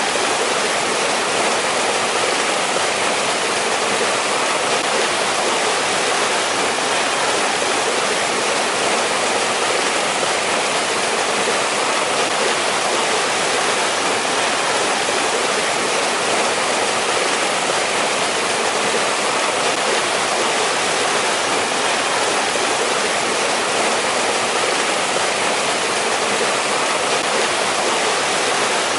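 A mountain valley stream rushing steadily, a constant even hiss of running water with no breaks.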